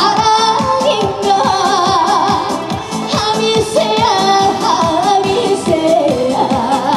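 Live trot song: a woman singing with wavering vibrato over amplified band backing with a steady beat.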